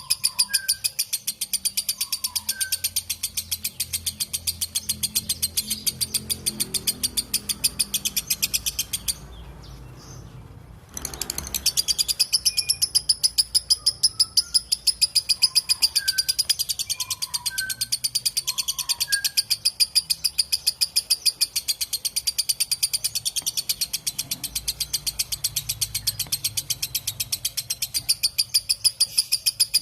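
Lovebird's long chattering song (ngekek): a fast, even run of sharp, high-pitched repeated notes that breaks off about nine seconds in and starts again about two seconds later. Fainter, lower chirps from other birds come through now and then.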